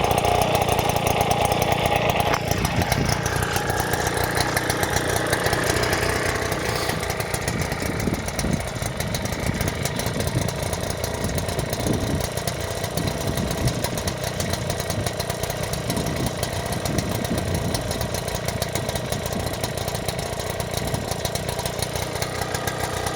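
Gutbord two-stroke engine running after a cold start from six months standing. About two and a half seconds in, its revs fall away quickly, and it then settles into a steady idle.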